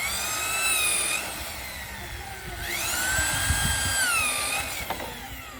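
Small electric drill revving up, running and winding down twice, a high whine each time.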